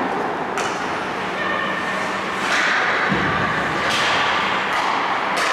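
Ice hockey play on a rink: a steady scraping haze with about five sharp knocks, typical of skate blades, sticks and puck, and a dull thud a little past the middle.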